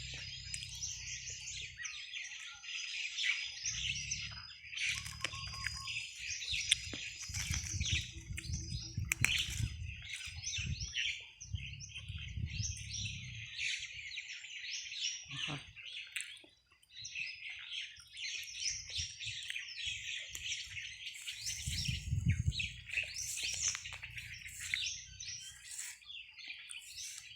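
A flock of small birds chirping and calling continuously in a fruiting tree, many short overlapping chirps. Low rumbles come and go every few seconds underneath.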